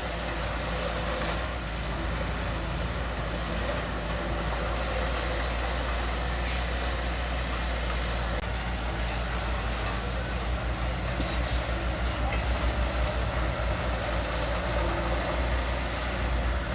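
Heavy construction machine's diesel engine running steadily, with a few light clicks and clanks. In the last few seconds the engine note pulses and grows rougher.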